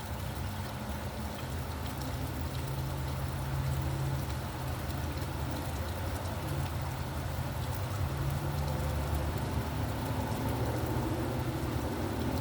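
Steady rain falling, with scattered drops ticking, over a low steady hum of traffic.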